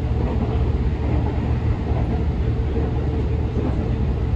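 Interior running noise of a JR Central 313 series 2300-subseries electric train (Toshiba IGBT-VVVF drive) moving at steady speed: a steady low rumble of wheels and bogies on the rails, with a faint steady tone above it.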